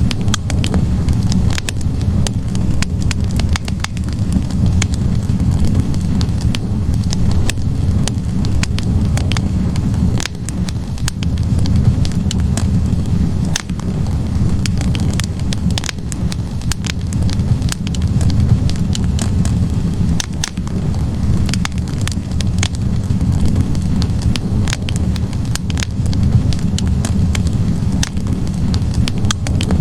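Wood logs burning in a fireplace: a steady low rumble of flames with frequent scattered crackles and pops.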